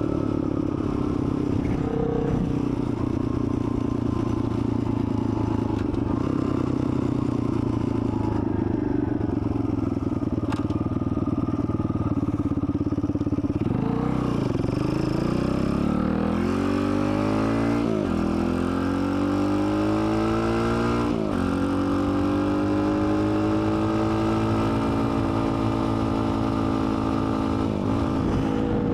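Dirt bike engine running at a steady speed, then accelerating about halfway through: the pitch climbs and drops back sharply several times as it shifts up through the gears, then holds steady near the end.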